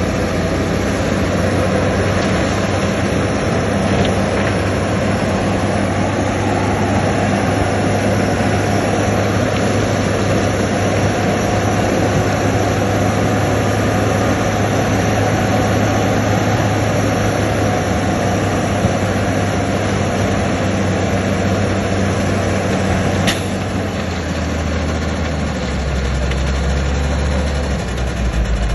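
Heavy diesel engine of earth-moving machinery running steadily. A single sharp click comes about three-quarters of the way through, and after it the engine note drops lower.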